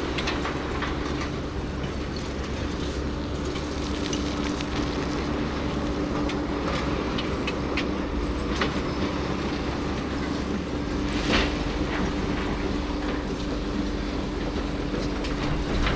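Heavy diesel machinery running with a steady hum and irregular metallic clanks and rattles, one sharper clank about two-thirds of the way through.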